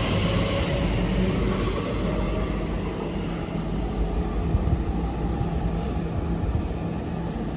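Elizabeth line Class 345 electric train pulling away from the platform, its motor whine fading over the first two seconds and leaving a steady low rumble.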